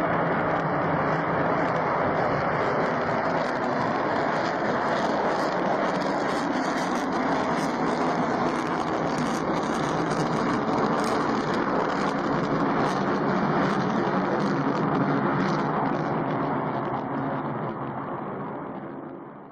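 Steady engine noise with a low hum and a faint high whine, fading out over the last few seconds.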